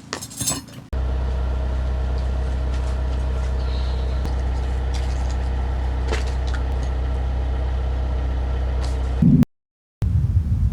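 Steady low drone of an idling vehicle engine that starts abruptly about a second in and runs evenly. It breaks off near the end into a short loud burst, then a rougher low rumble.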